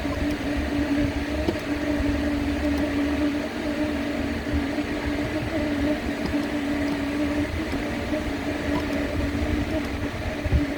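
Steady electrical hum of workshop machinery around a CNC plasma cutting table, with a low rumble underneath and a few faint clicks.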